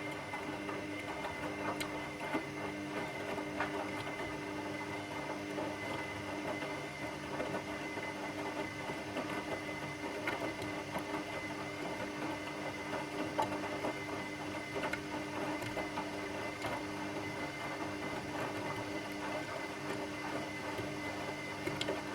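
Washing machine running: a steady motor hum with several held tones, a rough churning texture and scattered faint clicks.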